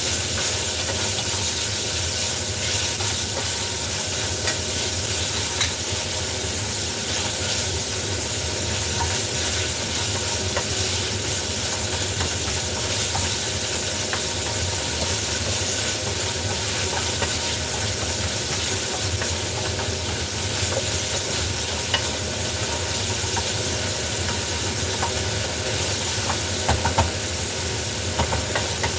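Food sizzling as it fries in a pan on a gas stove, stirred with chopsticks and a spatula that click and scrape against the pan now and then, over a steady low hum.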